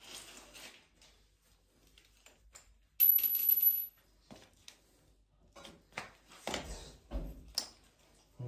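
Metal parts and tools being handled: scattered clinks and rattles, with one loud, ringing metallic clatter about three seconds in that lasts about a second.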